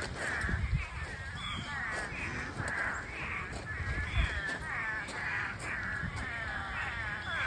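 A steady run of harsh, crow-like cawing calls, several overlapping, about two to three a second.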